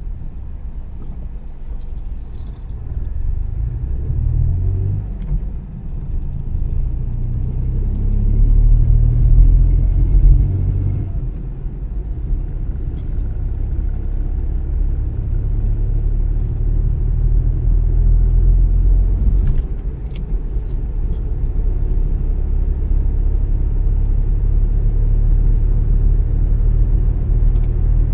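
A car being driven, giving a steady low rumble of engine and road noise. It swells about ten seconds in, dips briefly, then grows louder again toward the end.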